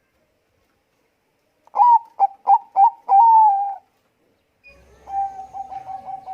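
Zebra dove cooing: after a silent gap of under two seconds, a loud phrase of four short notes ending in a longer drawn note, then a quieter phrase of quick repeated coos near the end.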